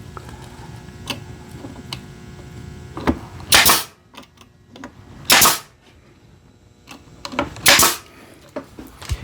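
A brad nailer fires three times, about two seconds apart, driving brads through cedar roof boards. Lighter clicks and knocks come between the shots as the tool and boards are handled.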